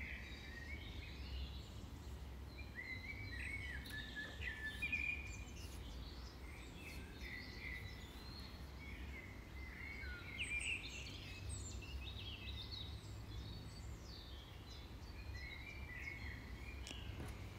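Faint background birdsong: many short chirps and warbles throughout, over a low steady hum.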